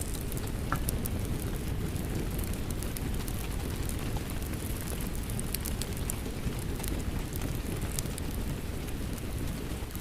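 Steady rain mixed with a crackling wood fire, sharp pops and crackles scattered throughout over a low, even rush of rain.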